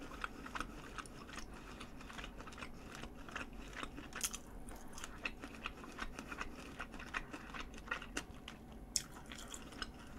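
A person chewing a mouthful of mentaiko (pollock roe) pasta close to a microphone: a steady run of small mouth clicks and crunches.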